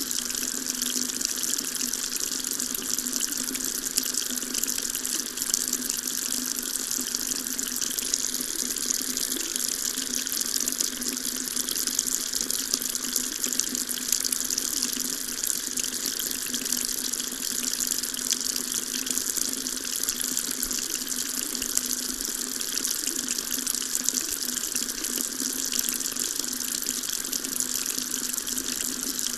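Water tap running steadily into a sink, an even splashing hiss.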